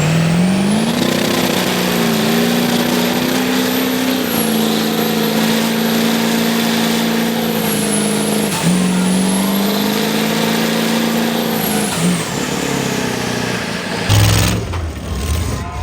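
Mega truck engine held at high revs, its pitch steady with a brief dip about halfway before climbing back, then falling off near the end. A faint high whine rises and falls with the engine.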